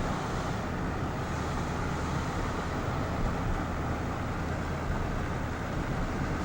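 Steady road and engine noise of a car being driven, heard from inside.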